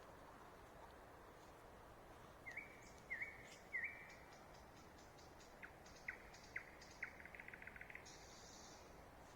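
A songbird singing one phrase: three repeated hooked whistles, then a few separate sharp clicks, a fast rattling trill, and a short buzzy hiss near the end, over faint steady background hiss.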